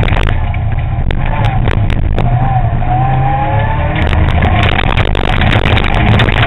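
M-Sport Ford Fiesta ST N3 rally car engine at speed, heard on board, its pitch rising and falling as the driver works the throttle. Sharp ticks of loose gravel strike the car throughout. From about four seconds in, the noise turns rougher and denser, as on a loose surface.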